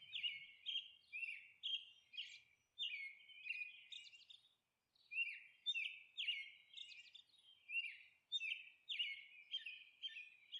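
A small songbird chirping over and over: short, high chirps about two a second, with a pause of about a second near the middle.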